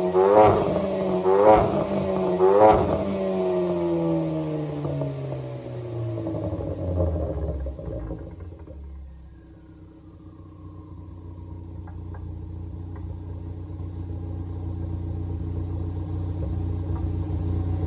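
2013 Ford Focus ST's turbocharged 2.0-litre four-cylinder with an aftermarket Cobb 3-inch exhaust and downpipe, revved in three quick blips about a second apart, then the revs falling slowly and settling into a low, steady drone.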